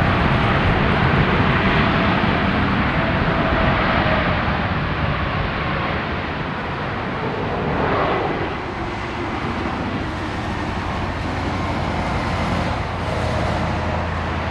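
Boeing 787-9 airliner's jet engines, a loud steady rushing noise that is strongest for the first few seconds and then eases off slightly.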